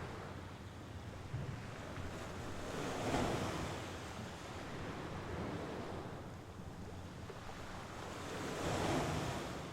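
Mediterranean Sea waves breaking and washing up on the shore, with two swells of surf about six seconds apart: one about three seconds in and one near the end.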